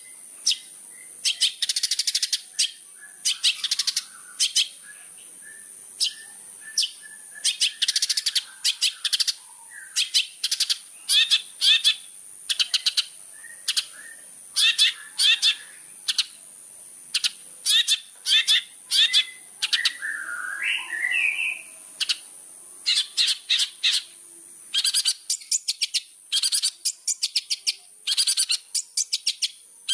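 Long-tailed shrike (cendet) singing: a rapid chatter of short, high-pitched chirps and trills, with a lower warbling phrase about twenty seconds in, over a steady high hiss.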